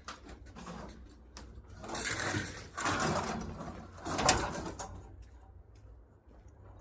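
Household scrap being shifted and dragged about, with a couple of longer scraping rushes and a sharp knock about four seconds in.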